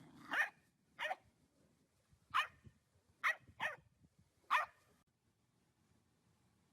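A dog barking six times in short single barks, with uneven gaps, then falling quiet about five seconds in.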